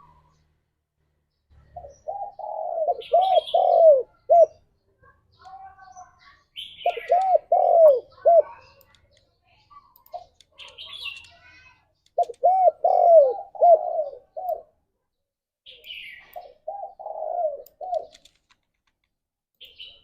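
Spotted dove cooing in four repeated phrases of quick, rounded notes, with short high chirps in the gaps between them.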